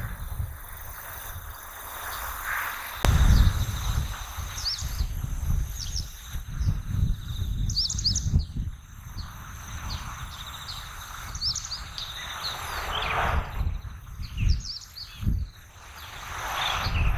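Small birds chirping in short, repeated calls over a steady high insect trill, with a low rumble underneath that comes and goes.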